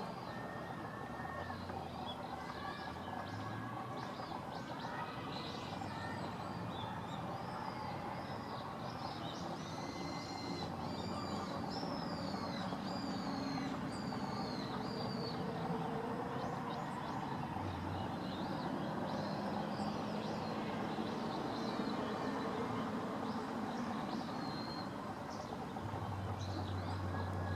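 Birds chirping and calling, many short gliding notes, busiest in the middle stretch, over a steady background noise with a low hum.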